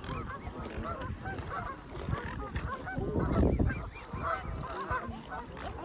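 A crowd of mute swans and cygnets calling at feeding, many short overlapping calls at once.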